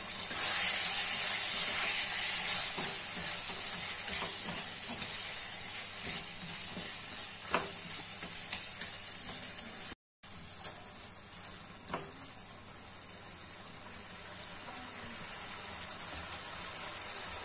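Potatoes in a tomato-and-spice masala sizzling in a coated pan as a spatula stirs them. The sizzle is loudest at first and eases off, drops suddenly about ten seconds in, then goes on more quietly, with a couple of sharp knocks of the spatula against the pan.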